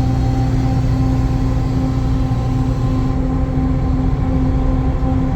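Lifted 2003 Ford F-250's 7.3L Powerstroke turbo diesel cruising with heavy road noise, dominated by a steady, loud hum and rumble from its 46-inch Michelin XML military tires, heard from inside the cab.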